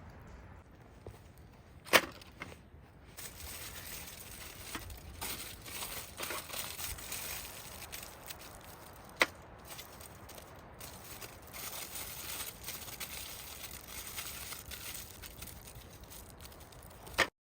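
Light crackling hiss with a few sharp snaps or knocks, three of them loud: about two seconds in, about nine seconds in and just before the end.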